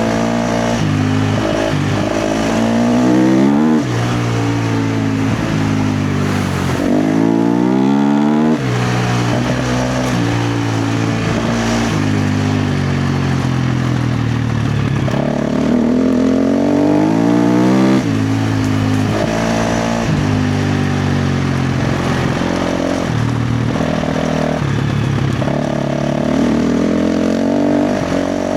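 KTM 350 XC-F dirt bike's single-cylinder four-stroke engine under hard throttle on a trail. It revs up and falls off again several times as the rider accelerates and backs off, with steadier stretches in between.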